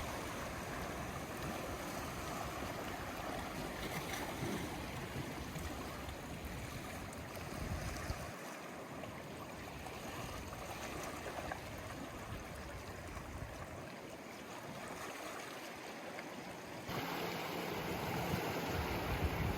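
Sea waves washing on the shore: a steady surf noise that suddenly gets louder near the end.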